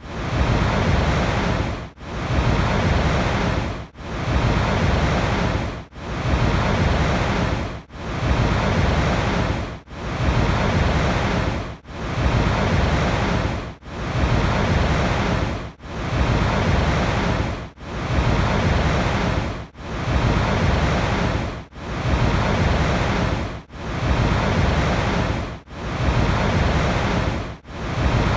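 Continuous rushing water noise that comes in even swells about every two seconds, each dipping briefly before the next.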